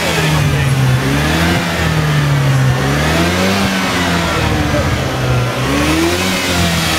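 Opel Astra OPC's 2.0-litre turbocharged four-cylinder engine being revved, its pitch rising and falling several times, with the biggest rise about halfway through.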